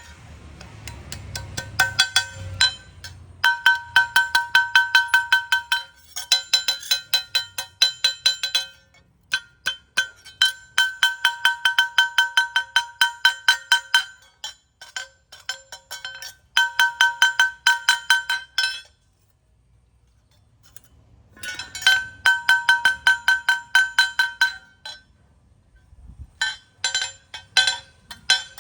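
Hammer blows on hot metal over an anvil, forging the blade of a rubber-tapping knife. Rapid strikes come about four to five a second, each with the same bright metallic ring. They fall in runs broken by short pauses and one longer pause about two-thirds of the way through.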